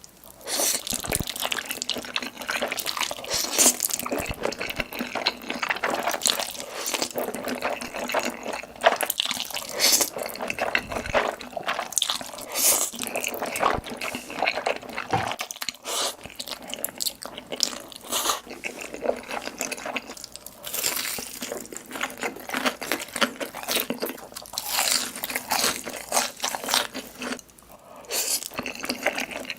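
Close-miked eating: wet chewing and crunching with a dense run of sharp mouth clicks and smacks.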